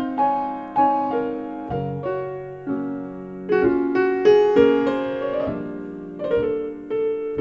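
Piano playing a slow jazz ballad passage, chords and single notes struck and left to ring out, played back through JBL K2 S5500 loudspeakers and picked up by a microphone in the room.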